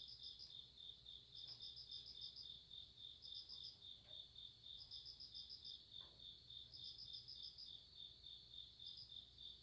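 Summer-night grass insects chirping in two overlapping songs. One is a steady pulsed chirp at about four to five a second. The other is a higher, rapid trill that comes in short bursts every one and a half to two seconds.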